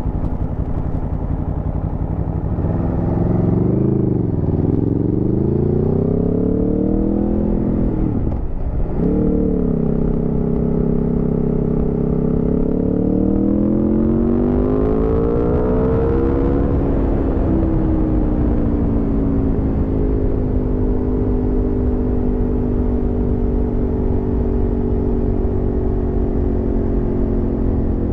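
Aprilia Tuono V4's V4 engine riding under way, pitch climbing for several seconds, then a sharp brief drop and recovery in revs about eight seconds in. The revs climb again from about fourteen seconds in, ease back and hold steady near the end.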